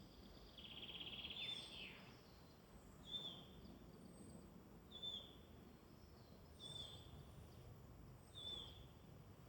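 Faint woodland songbirds: one bird repeats a short high call with a falling tail about every second and a half to two seconds, with a brief rapid trill near the start and fainter high whistles from other birds, over a soft steady background hiss.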